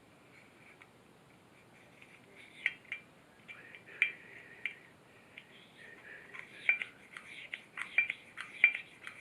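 Small metal parts of a Stromberg carburetor clicking and scraping as they are handled and fitted, likely the float and needle valve going in: a scattered series of light taps and scrapes. They grow busier a couple of seconds in, and the sharpest clicks come near the middle and toward the end.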